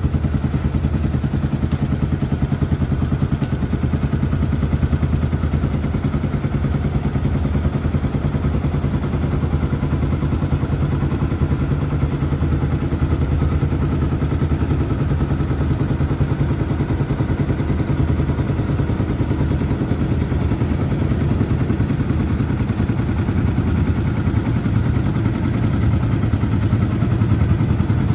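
Yamaha YZF-R125's 125 cc single-cylinder four-stroke engine idling steadily through an aftermarket Akrapovič-replica sports exhaust, with an even, unchanging beat.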